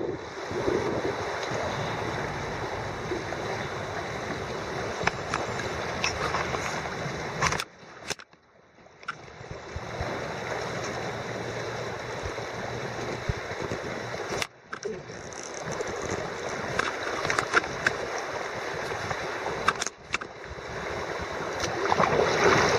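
Fast-flowing floodwater rushing around a kayak, with sharp paddle splashes now and then. The sound drops out briefly about eight seconds in.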